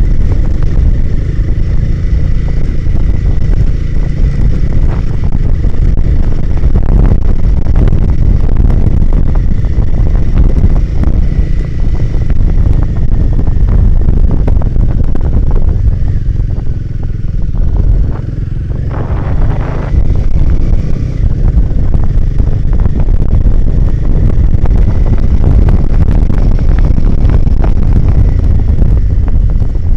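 Motorcycle engine running as the bike rides along, under heavy wind buffeting on the microphone; the sound eases briefly about two-thirds of the way through, then picks up again.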